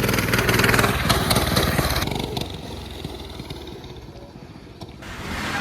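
Dirt bike engine running, loud at first, then fading away from about two seconds in and growing louder again near the end.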